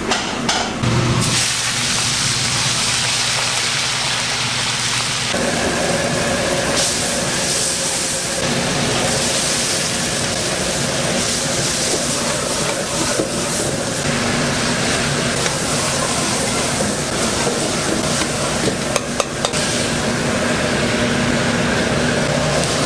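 Food sizzling and frying in a wok, with stirring, over the steady roar of a commercial kitchen's burner and extraction. The sound changes abruptly several times.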